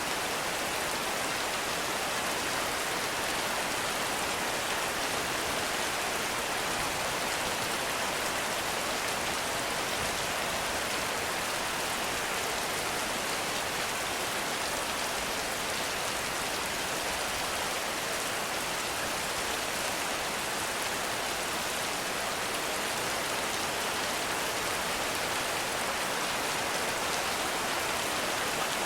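Heavy rain falling steadily in a forest: an even, unbroken hiss of rain on leaves and ground, with no thunder.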